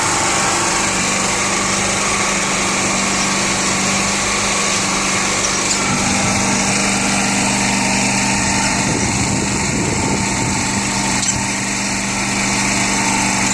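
A small motor running with a steady hum, with a few faint, brief high-pitched ticks over it.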